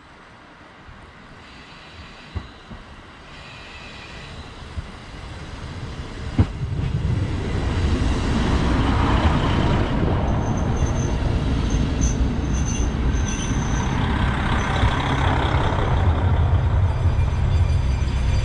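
Diesel railcar approaching over the rails, getting steadily louder with a few sharp clicks, until it pulls alongside about six seconds in. Its engine runs with a heavy low rumble, and the brakes squeal in short bursts as it slows to a stop and settles to idle.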